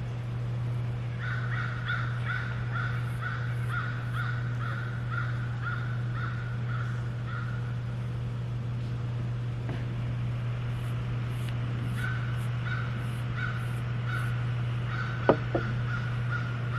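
A bird calling in long runs of short, evenly spaced, repeated notes, about two a second, over a steady low hum; the calls stop midway and start again later.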